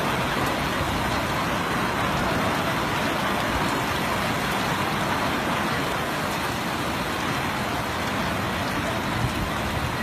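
Heavy rain pouring down in a strong storm: a loud, steady hiss.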